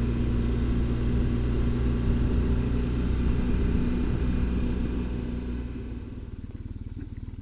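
BMW R1200GS Adventure's flat-twin engine running as the motorcycle slows, with wind and road noise dying away, then idling with an even low pulsing about six seconds in.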